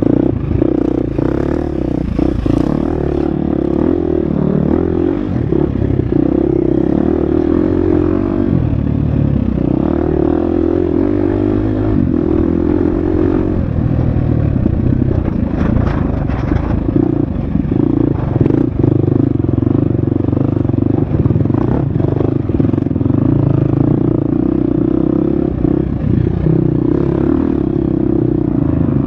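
Husqvarna FX 350 dirt bike's single-cylinder four-stroke engine running hard under constantly changing throttle, its pitch rising and falling, with clatter and knocks from the bike over rough off-road trail.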